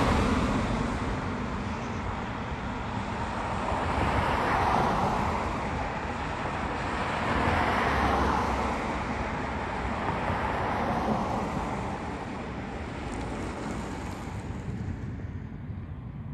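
Road traffic: vehicles passing one after another, each a swell of tyre and engine noise, thinning out near the end.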